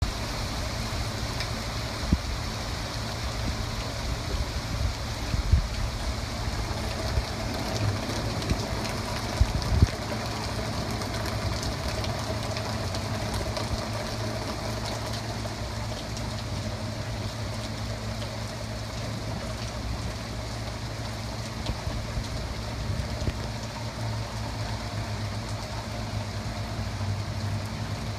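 Heavy thunderstorm rain pouring down steadily, with a few brief low thumps between about two and ten seconds in.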